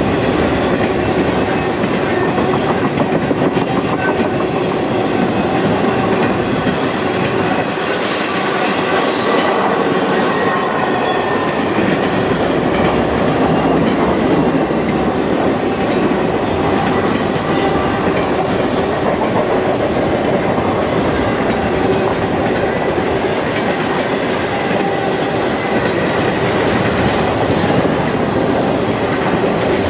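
Freight train cars rolling past steadily, wheels clicking over the rail joints, with a faint squeal from the wheels.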